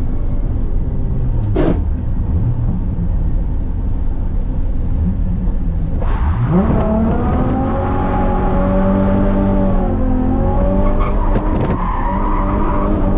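Holden VY Commodore Calais engine rumbling at low revs, then revving hard about six seconds in and holding high revs with tyres squealing as the car drifts. The revs dip briefly a few seconds later and climb again.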